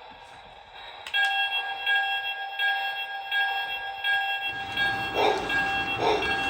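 A Lionel O gauge model locomotive's sound system starts ringing its bell about a second in. Around four and a half seconds in, the train gets under way with a low rumble of wheels on track and a rhythmic beat about every 0.7 seconds.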